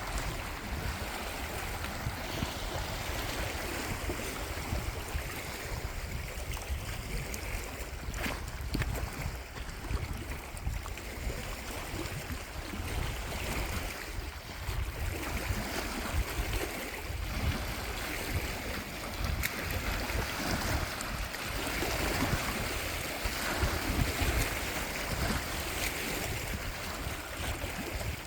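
Steady wash of water noise, with wind buffeting the microphone as a low, fluttering rumble.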